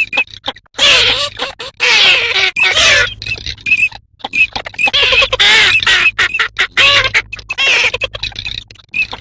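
Recorded calls of a flock of dabbling ducks, the garganey, teal and northern shoveler mix played as a hunting lure: dense overlapping quacking and chattering calls with short repeated high notes, broken by brief pauses about a second in, around four seconds in and near the end.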